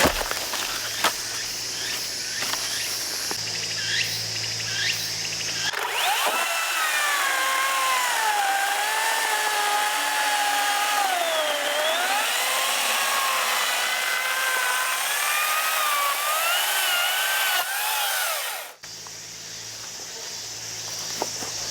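Makita cordless chainsaw cutting wood: its electric motor whine sags and recovers in pitch as the chain bogs under load, then stops abruptly. Before it starts, about six seconds in, there are scattered sharp clicks and knocks.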